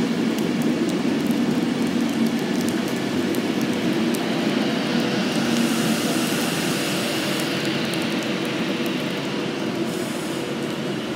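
Class 390 Pendolino electric train passing close along the platform: steady wheel-on-rail running noise with scattered clicks, and a high hiss that swells from about halfway through, easing slightly near the end.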